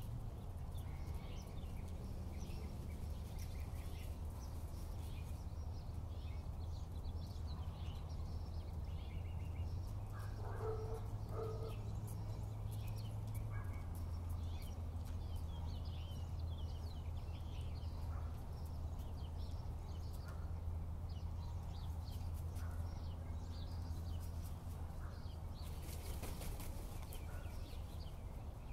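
Faint, scattered bird chirps over a steady low hum, with two short calls close together about ten seconds in.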